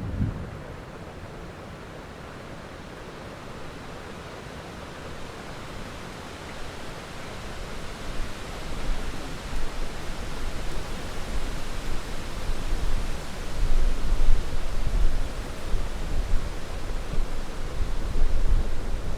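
Steady rain hiss, with the tail of a thunderclap dying away at the start. Low thunder rumbles build through the second half, loudest about two-thirds of the way in and again near the end.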